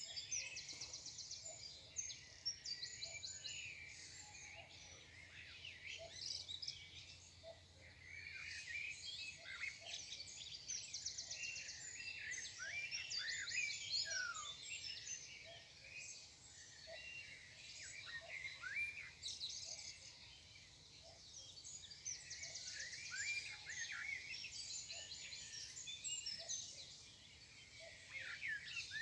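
Several songbirds singing at once in a morning chorus: overlapping chirps, short whistles and rapid trills, one fast trill recurring several times.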